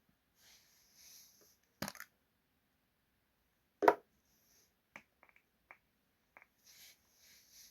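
Items being handled and set down while stocking a mini fridge: soft rustling of packaging, a sharp knock about two seconds in, a louder clunk about four seconds in, then several light clicks and taps.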